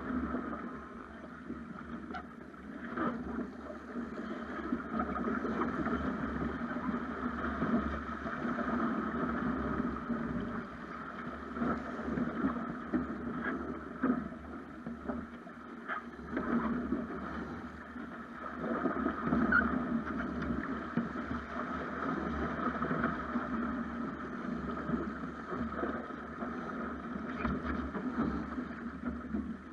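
Water rushing and splashing along a Snipe sailing dinghy's hull under way, with wind buffeting the microphone and a few light knocks.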